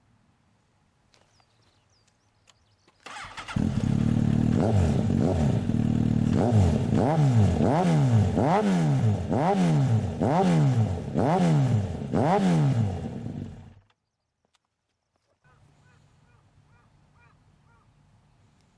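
Yamaha XJR1300's air-cooled inline-four, on a loud aftermarket exhaust, starting up about three seconds in, then revved in about ten quick, evenly spaced throttle blips, each pitch rising and falling, before the engine cuts off abruptly.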